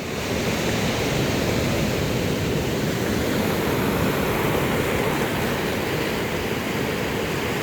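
Ocean surf, a loud, steady rushing with no breaks.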